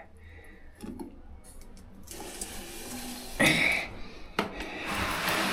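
Water running from a tap and splashing into a water container as it is filled, with a few knocks of the container.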